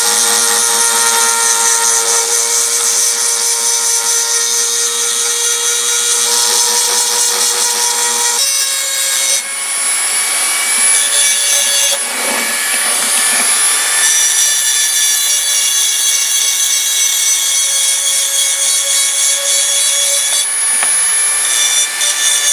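A power tool running steadily while grinding into deep pitted rust on steel locking pliers, its high whine shifting in pitch a few times as the load changes.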